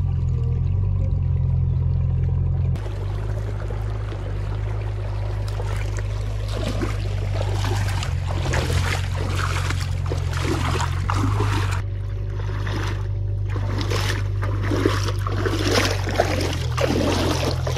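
A heavy diesel engine running steadily, with wet mud and water sloshing and splashing over it from about six seconds in.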